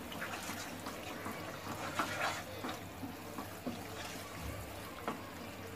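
Thick curry masala paste sizzling in oil in a non-stick pan while a wooden spatula stirs it, with irregular scraping strokes against the pan.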